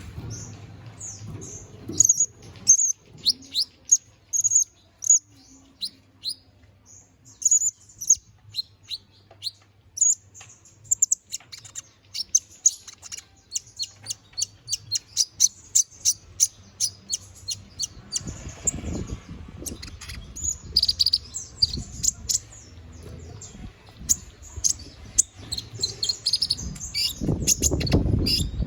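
Domestic canary singing a long, unbroken song of rapid chirps and trills. A low rumbling noise comes in twice in the second half.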